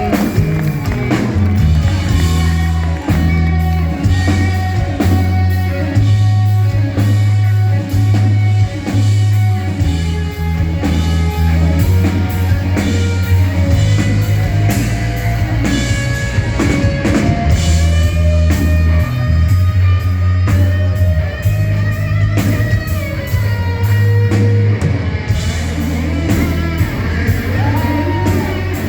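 Rock band playing: electric guitar lines over steady bass and drum kit, in an instrumental passage of the song.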